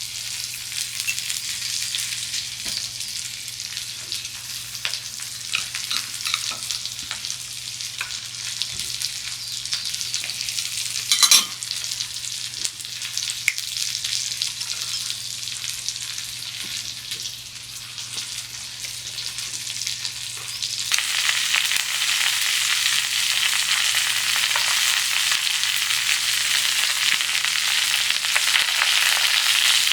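Food sizzling and frying on a hot cooking surface, with scattered small pops and one sharp click about eleven seconds in. About twenty-one seconds in the sizzle turns suddenly louder and fuller.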